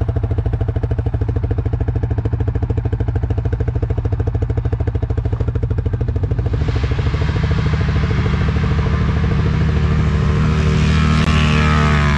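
ATV engine idling with a steady, rapid exhaust putter, then revving up about halfway through and holding higher revs, with the pitch easing back down near the end.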